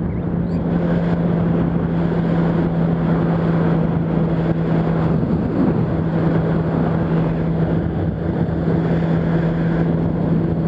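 Yamaha R1's inline-four engine running steadily at highway cruising speed, with wind rush over it. The engine note wavers briefly about halfway through.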